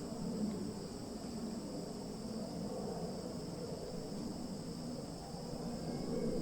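Insects, crickets or similar, chirring steadily in a high, unbroken drone over a low, uneven rumble of background noise.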